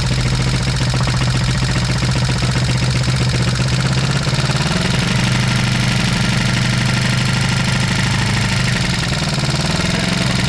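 1973 Honda CB350's air-cooled parallel-twin engine running on its first start after 18 years of sitting. It runs at a steady idle, the revs are raised about four and a half seconds in and drop back near nine seconds, then rise again near the end.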